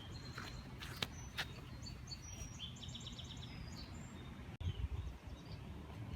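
Songbirds chirping outdoors, with one quick trill of about ten repeated notes around three seconds in, over a steady low rumble. A few sharp clicks come in the first second and a half, and low thumps follow after about four and a half seconds.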